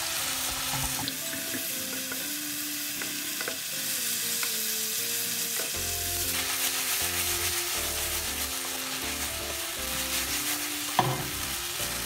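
Eggplant and tofu puffs sizzling in sauce in a nonstick frying pan, freshly watered, while a wooden spatula stirs them, with occasional scrapes and taps of the spatula on the pan. Light background music plays underneath, its bass coming in about six seconds in.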